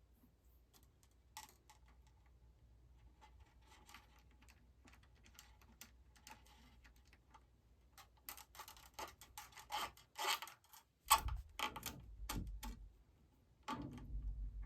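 Handling noise from new strings being fitted to a baritone electric guitar: light metallic ticks and rubbing that grow louder and busier about eight seconds in, with a few dull knocks near the end.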